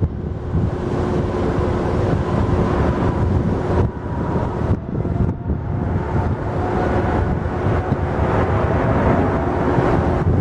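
Jet airliner engines running loud: a heavy rumble with a steady whine, and wind buffeting the microphone.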